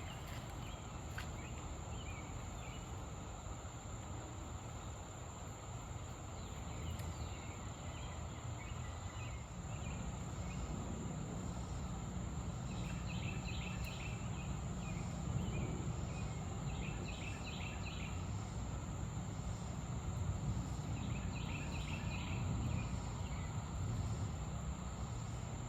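Outdoor ambience beside a creek: a continuous high-pitched insect drone over a steady low rush of noise, with short clusters of chirps from insects or birds every few seconds.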